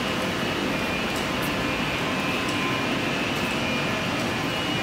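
Steady whirring hum and hiss from an Avant train standing at the platform, its on-board ventilation and air-conditioning equipment running.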